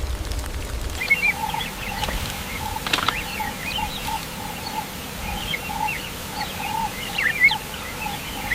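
Birds calling: a steady run of short low notes, two or three a second, with scattered higher chirps over them. A low rumble with a few clicks fills the first second before the calls begin.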